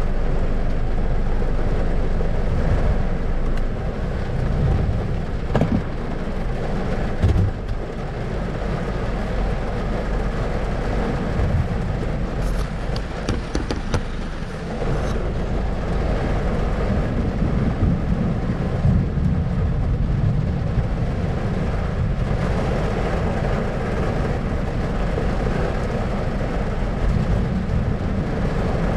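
Thunderstorm: a steady wash of rain under a low rumble, with a few short sharp cracks about a quarter and half way through.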